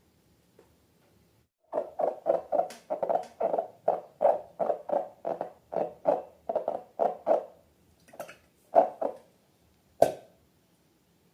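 Slime being squeezed and worked by hand, making a quick run of wet squelches at about three a second. A few slower squelches follow near the end.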